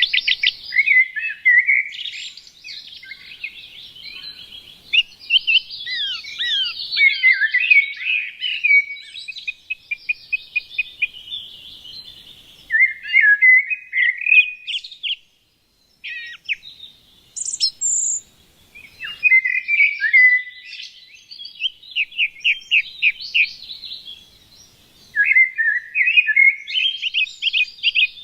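Small songbirds chirping and singing in rapid trills and twittering phrases, with a short pause about halfway through.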